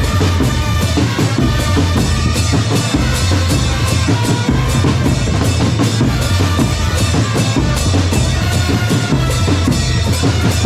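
A drum corps playing percussion music: steady, dense bass drum and snare drum beats.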